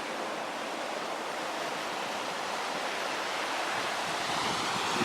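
Wake waves from a passing ferry washing onto the loch shore: a steady rushing wash of water that swells slightly near the end.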